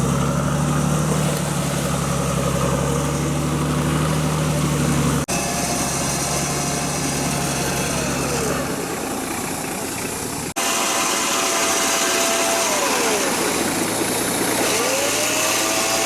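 A 4x4 off-road vehicle's engine running steadily, broken by two abrupt cuts; in the later parts a whining tone holds level, then falls and rises in pitch.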